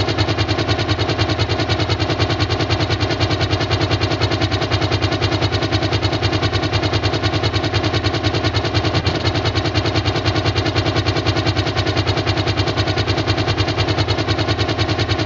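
Dubbed-in engine-like sound effect: a steady, fast, even pulsing hum that holds unchanged throughout.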